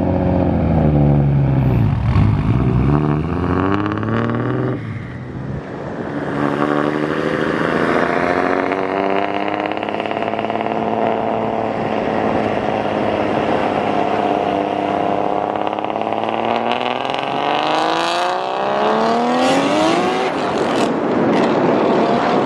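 BMW M3 engine and loud exhaust driving along. The revs dip and pick up again about two seconds in, then climb slowly for a long stretch, with sharper rises in revs near the end.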